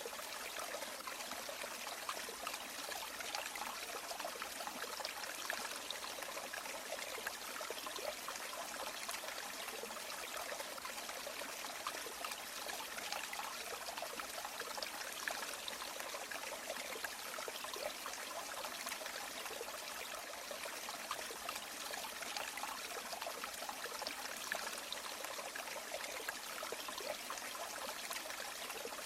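A river's water flowing and trickling steadily, an even rushing with fine splashing flickers and no change over the whole stretch.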